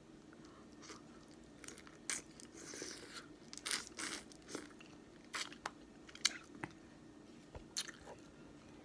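Close-up eating of boiled crawfish: irregular sharp cracks and crunches as shells are broken and the meat pulled out, with chewing in between.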